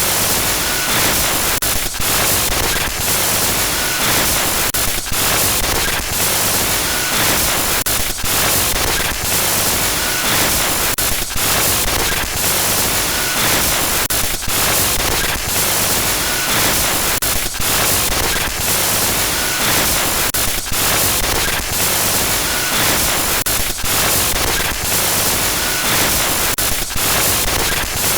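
Glitch-noise horror sound effect: loud, continuous static hiss across the whole range. It is broken by frequent brief stutters and dropouts at irregular intervals, with faint short high blips here and there.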